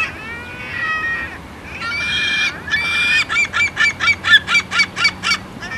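Seagulls calling: a few drawn-out, bending cries, then a fast run of about ten short, repeated yelping notes, roughly five a second.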